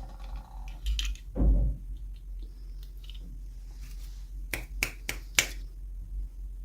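Small plastic toy packaging handled during an unboxing: a soft thump about a second and a half in, then four quick sharp clicks about a second later.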